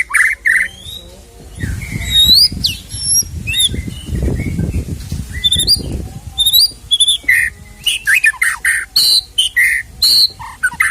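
White-rumped shama (murai batu) singing a fast, varied song of short whistles, rising and falling slurred notes and harsh notes. A low rumbling noise runs under the song from about one and a half to six and a half seconds in.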